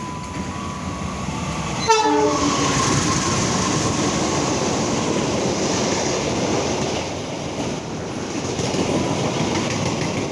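A CC206 diesel-electric locomotive sounds its horn in a steady tone as it approaches. About two seconds in it passes close at speed, with a sudden jump in loudness and a quick falling sweep in the horn's pitch. The steady rush and wheel clatter of the passenger carriages going by follows.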